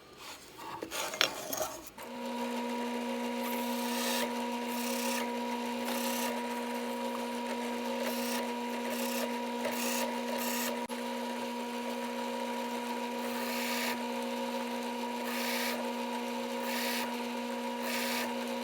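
Drill press motor starting up about two seconds in and running steadily, while its spinning 1-inch wire-tied brush is pressed again and again onto aluminum plate, giving a short scratchy hiss at each touch, roughly once a second: engine turning a metal surface.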